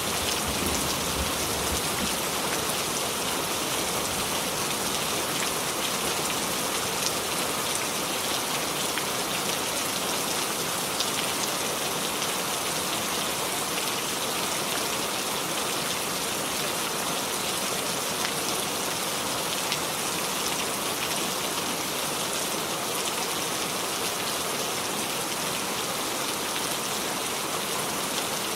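Steady rainfall: a dense, even hiss of rain with a few separate drops ticking through it.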